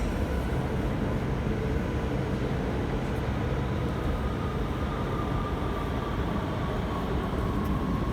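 Passenger train moving at a station: a steady rumble, with a faint high whine slowly falling in pitch in the second half.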